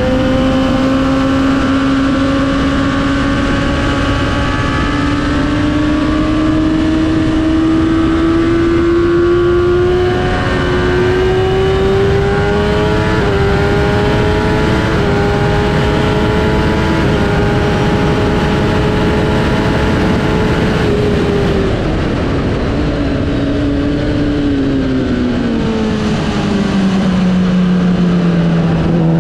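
Onboard sound of a Kawasaki sportbike's inline-four engine at high revs, its pitch climbing slowly under acceleration for about twenty seconds, then falling as the throttle closes into a corner, and rising again near the end as it drives out. Wind rush runs underneath.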